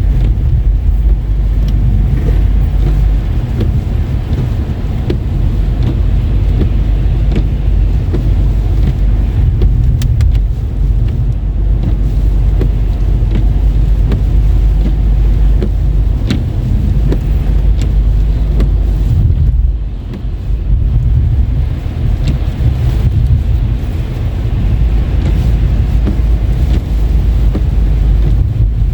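A car driving, heard from inside: a steady low rumble of tyres and engine, with a brief lull about two-thirds of the way through.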